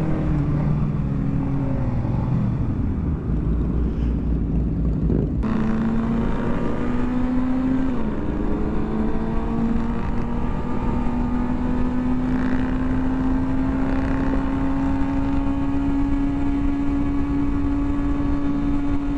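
Motorcycle engine running under way, with wind rushing on the microphone. Its pitch sinks at first. After a sudden break about five seconds in, it climbs slowly and steadily, with a brief dip about eight seconds in.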